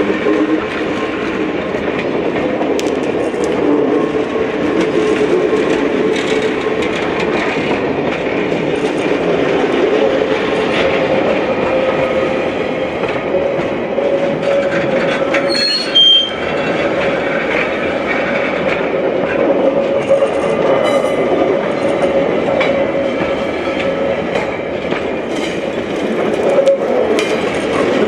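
A train rolling along the track, with steady wheel-and-rail noise and a drawn-out wheel squeal. A brief sharp high squeak about halfway through.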